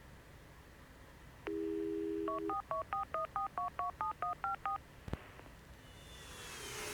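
Telephone dial tone for about a second, then a quick run of about eleven touch-tone keypad beeps, a phone number being dialed. A single click follows, and near the end a hiss swells up.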